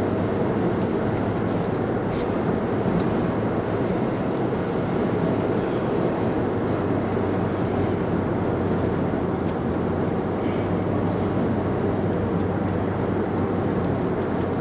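Steady road and engine drone inside a moving car, an even rumble with a constant low hum.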